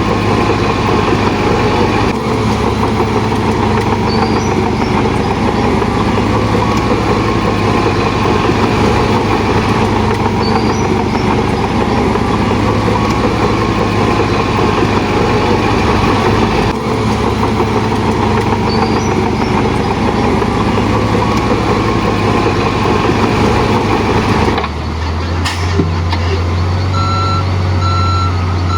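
Heavy diesel earthmoving machinery running steadily under load. Near the end the engine sound changes and a reversing alarm beeps about three times.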